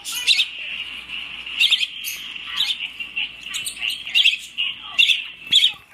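Pet birds chirping: short, sharp high calls repeating about twice a second over a steady high-pitched chatter.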